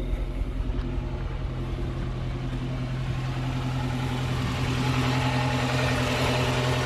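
Honda H22A four-cylinder engine idling steadily, heard from the rear of the car, with a fairly bad misfire. The code reader pins the misfire on cylinder 2, and the owner suspects worn spark plugs or plug wires.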